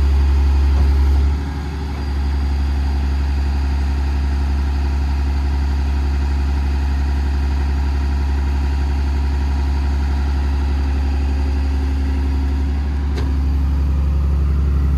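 Paccar PX-6 6.7-litre diesel engine running steadily with the PTO engaged to drive the crane's hydraulic pump. The engine note dips briefly about a second and a half in, and picks up slightly near the end as the load changes.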